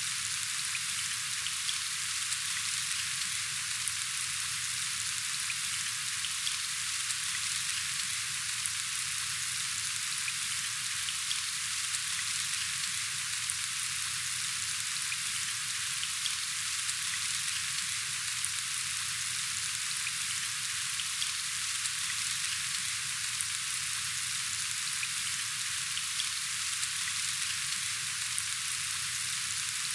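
Steady rain falling: an even hiss sprinkled with small drop ticks.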